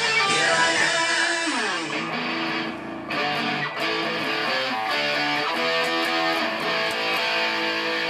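Distorted electric guitar music: rock guitar notes slide down about a second and a half in, then settle into held, ringing notes.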